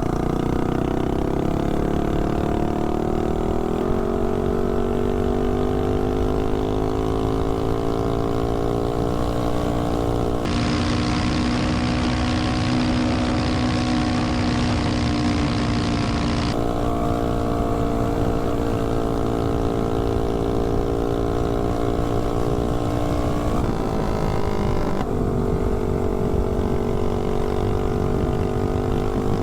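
Tillotson 212 single-cylinder four-stroke engine of a Doodlebug mini bike under hard throttle, running on VP Racing nitro fuel. Its pitch climbs over the first few seconds as the bike accelerates, then holds steady at high speed, dipping briefly and recovering about 24 seconds in.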